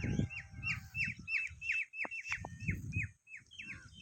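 A bird calling a rapid, regular series of short chirps, each sliding down in pitch, about three to four a second.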